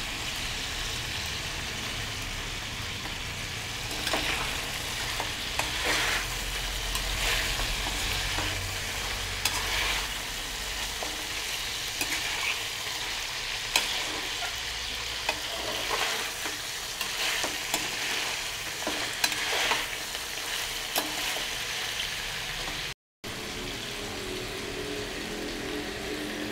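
Chicken pieces sizzling as they fry in ghee in a wok, with a spatula scraping and knocking against the pan now and then as they are stirred.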